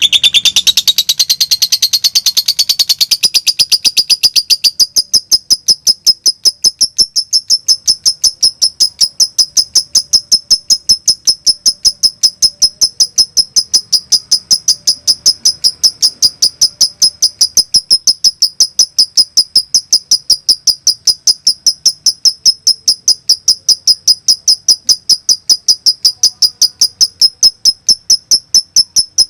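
Lovebird giving a 'konslet' call: a long, unbroken run of rapid, evenly spaced high chirps. For the first few seconds it is busier and rises in pitch, then it settles into a steady machine-like rhythm.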